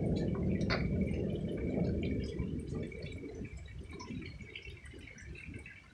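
Rolling thunder: a low rumble that slowly fades away over several seconds.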